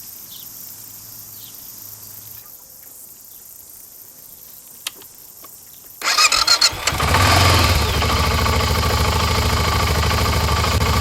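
A motorcycle engine is started about six seconds in: a brief, stuttering start, then it catches and runs steadily. Before that, only a faint high hiss and a single click.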